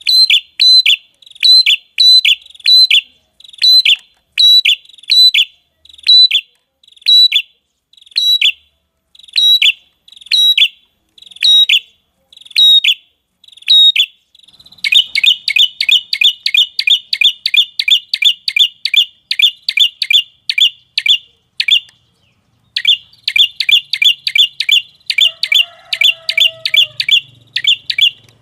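Bird-lure call of a prenjak kepala merah: sharp, high chirps repeated about twice a second, then quickening about halfway through into a rapid run of about five a second, broken by one short pause near the end.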